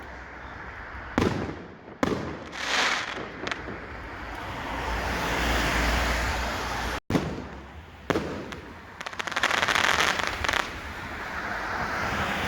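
Fireworks going off: several sharp bangs and swelling stretches of crackling. The sound cuts out for an instant about seven seconds in.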